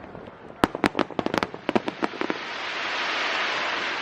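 Aerial fireworks going off: a rapid run of sharp bangs for about two seconds, then a dense crackling hiss that swells and eases off.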